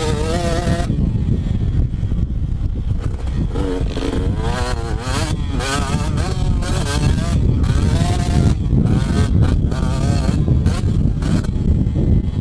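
Two-stroke motocross bike engine revving up and falling back again and again as it is ridden around the track, over a constant low rumble.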